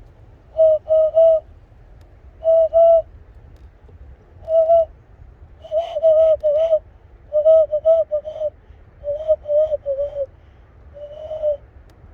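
Hand whistle made by blowing into cupped hands, mimicking a bird call: short hooting notes in quick clusters of one to four, with pauses between clusters. The later notes dip slightly in pitch, and the last one is held a little longer.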